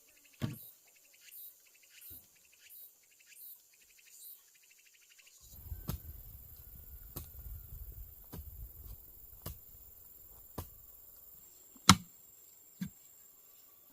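Insects chirping in an even, high pulse, with a knock about half a second in. About five seconds in, the sound changes to a steady, high insect whine over a low rumble, broken by scattered sharp knocks, the loudest near the end.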